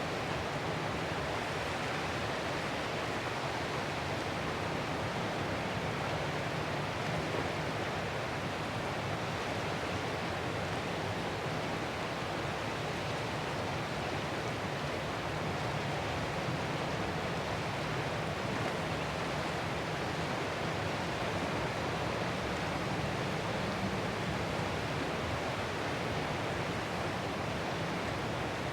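Ocean surf washing ashore, heard as a steady, even hiss with no separate wave crashes standing out.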